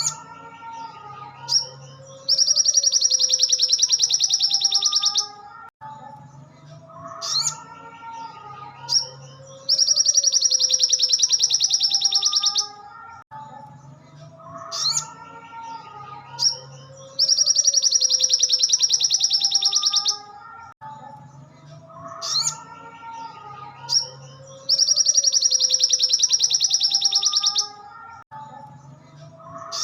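Recorded song of a sogon (sogok ontong), a sunbird, played in a loop: a loud, very fast high trill lasting about three seconds, four times over at even spacing, with short sharp chirps and lower warbling notes between the trills.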